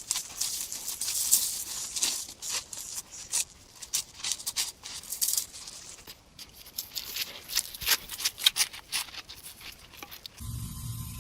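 Scuffing and rustling of a baby rhino and a goat moving and jumping about, with many irregular sharp clicks. Near the end it cuts abruptly to a steady low hum.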